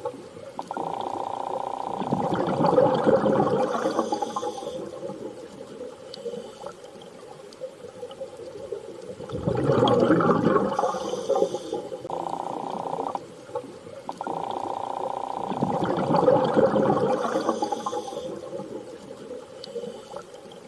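Underwater-style water ambience: rushing surges of water swell and fade about every six to seven seconds. A steady hum cuts in and out between them.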